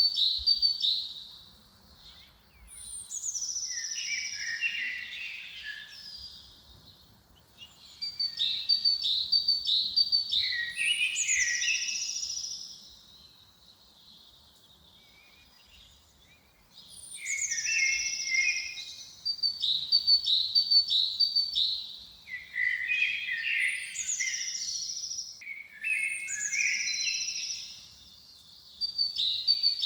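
A songbird singing: short phrases of quick high notes and trills, repeated every few seconds, with a longer pause about halfway through.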